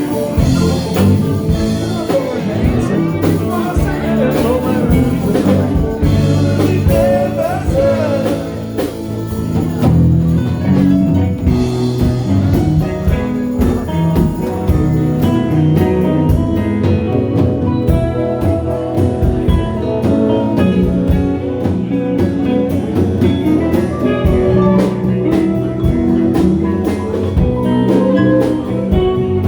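Live band playing a blues-flavoured ragtime tune, with guitar and drums keeping a steady beat.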